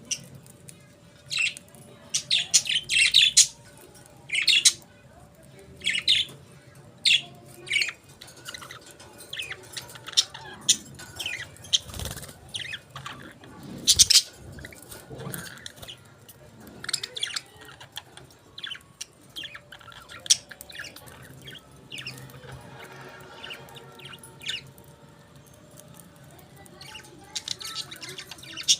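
Budgerigars chirping and chattering in short, irregular high-pitched calls, with a couple of sharp knocks near the middle.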